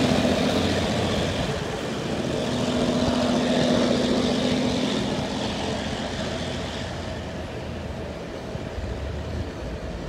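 Taiwan Railway Chu-Kuang express train pulling out: a steady diesel locomotive engine drone with rolling noise. It fades gradually as the train moves away.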